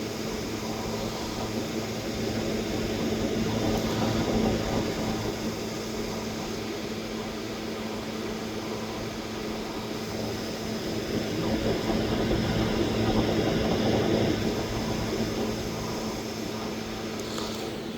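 Steady low mechanical hum under a rushing noise that swells twice, about three seconds in and again about eleven seconds in.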